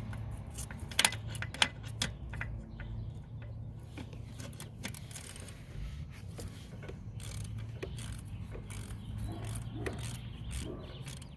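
Hand tools clicking, knocking and scraping on metal while a starter motor is being unbolted from under a car, with a steady low hum underneath.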